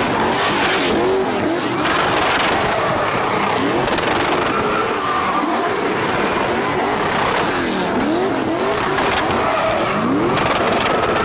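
Cars drifting: engines revved hard, rising and falling again and again, over a continuous loud screech of sliding tyres.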